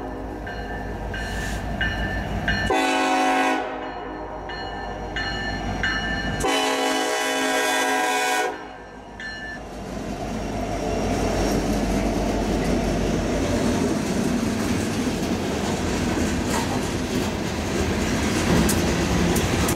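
Union Pacific 1943, an EMD SD70ACe diesel locomotive, sounds its air horn in two blasts as it approaches a grade crossing: a short one about three seconds in and a longer one about six and a half seconds in. From about nine seconds in, the locomotive and the train behind it pass over the crossing in a steady loud rumble of wheels and engine, with clicking from the wheels on the rails.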